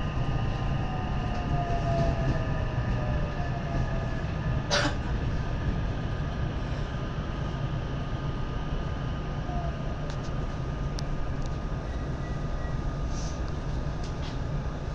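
Interior running sound of a JR West 227 series electric train's motor car, with a Toshiba IGBT VVVF inverter. A steady low rumble runs throughout, and a thin inverter whine glides down in pitch over the first few seconds as the train slows. A sharp click comes about five seconds in.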